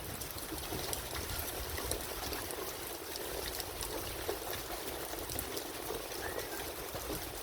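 Steady rain falling, with many scattered drops ticking sharply.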